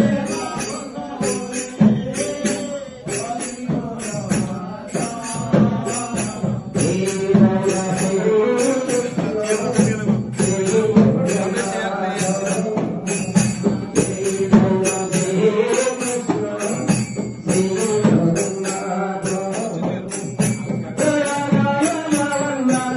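Devotional group chanting (naam sankirtan) with a sung melody over a steady jingling percussion beat of about two strokes a second.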